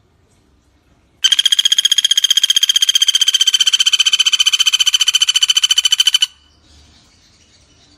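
Common flameback woodpecker (pelatuk bawang) giving one long, very fast rattling trill, about a dozen even notes a second, lasting about five seconds and stopping abruptly.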